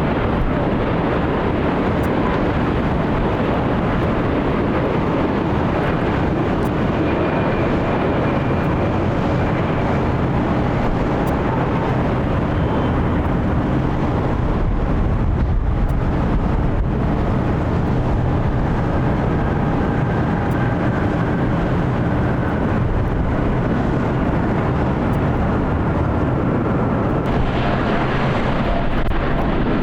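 Boeing 787 jet engines running: a steady, loud rushing noise with faint whining tones that slowly shift in pitch.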